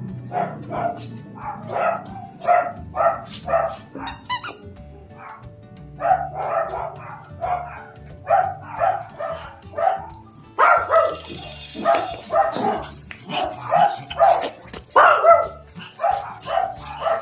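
A dog barking over and over, about two barks a second, with a pause of a couple of seconds after the first run of barks.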